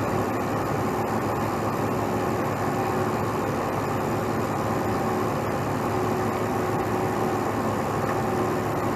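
Heavy truck's diesel engine running steadily at an even speed.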